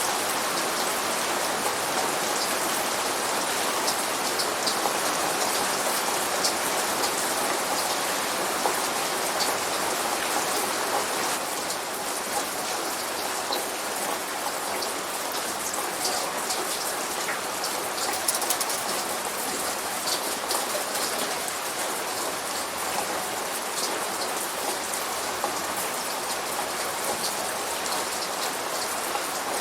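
Light rain falling steadily, with many small drop ticks over an even hiss; no thunder in this stretch.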